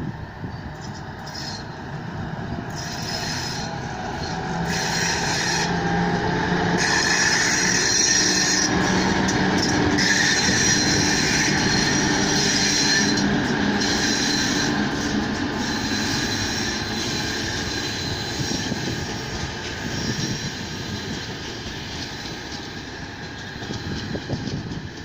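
Suburban passenger train hauled by a 2TE116 diesel locomotive passing by, its wheels on the rails growing louder to a peak partway through and then fading, with a high squeal from the wheels.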